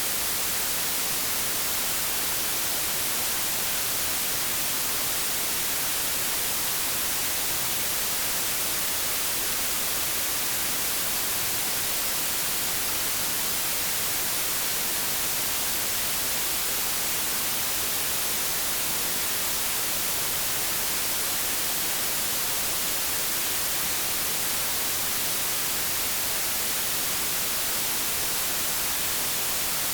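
Steady white noise static, like a television or radio tuned between stations: an even hiss weighted toward the high end, unchanging throughout.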